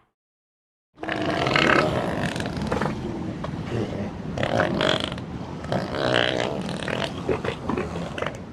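Elephant making low, rough, rumbling growls that start about a second in and go on almost without a break.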